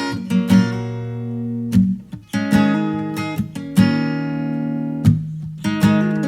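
Acoustic guitar music: strummed chords, each strum ringing on before the next.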